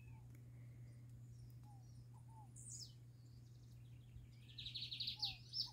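Faint birdsong: scattered short chirps, then a fast trill of high repeated notes near the end.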